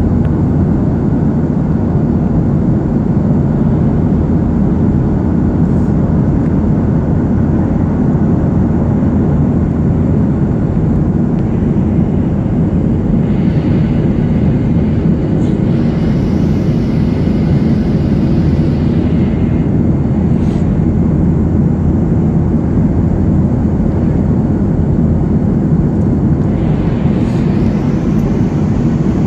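Aircraft engine running with a steady, loud drone. A higher hiss swells in twice, once about halfway through and again near the end.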